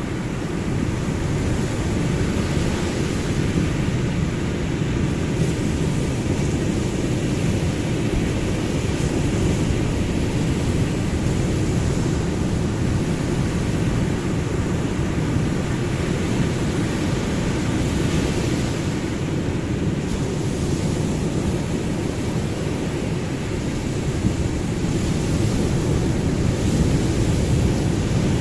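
Ocean surf: a steady low rumble of breaking waves, with a hiss that swells and fades every several seconds as waves wash in.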